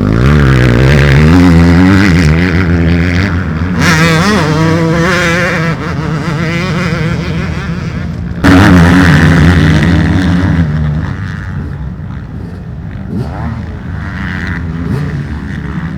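Motocross bike engines revving hard, their pitch rising and falling with throttle and gear changes. About eight and a half seconds in a louder bike cuts in suddenly, and for the last few seconds the engines are quieter.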